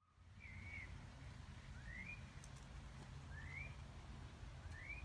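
A bird's short rising whistled call, repeated four times about every second and a half, over a faint low outdoor rumble.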